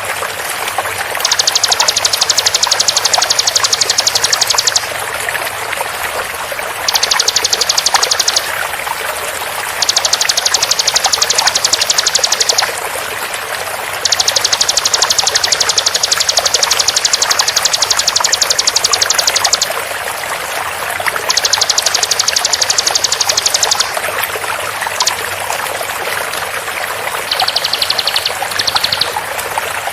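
Bar-winged prinia (ciblek) singing in rapid-fire trills of tightly packed high notes, in about six bursts of one to six seconds with short gaps. Under it runs the steady rush of flowing water.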